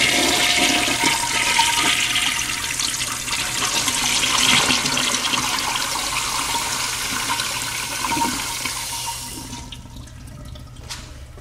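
Crane toilet flushing through a Crane Presto flushometer valve: a loud, steady rush of water that fades and stops about nine and a half seconds in. A few faint clicks follow near the end.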